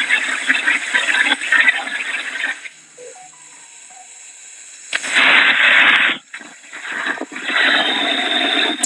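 Hurricane wind and rain gusting against the microphone as a steady rushing noise. It drops to a brief lull a little before the middle, then surges back in strong gusts.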